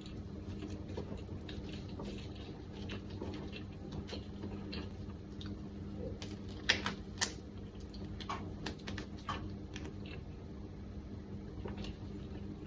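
Close-miked mouth sounds of a person chewing a rice ball: irregular soft wet clicks and smacks, with two sharper clicks about seven seconds in, over a steady low hum.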